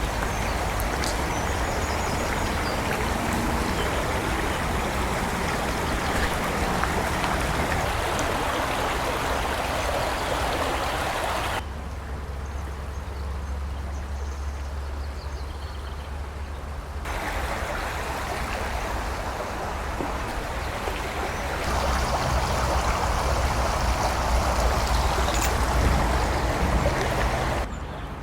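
Steady rush of falling water from a waterfall, heard across several cut-together shots. It drops quieter for a few seconds near the middle and again just before the end, and is loudest shortly before that last drop.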